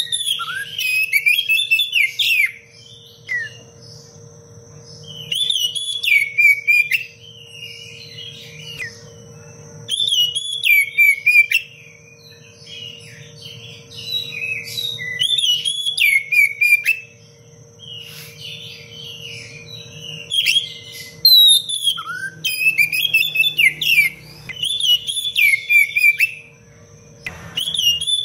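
Oriental magpie-robin (kacer) singing a dense, varied song of sweeping whistles and quick chirps. The song comes in bursts of a few seconds with short pauses between, over a low steady hum.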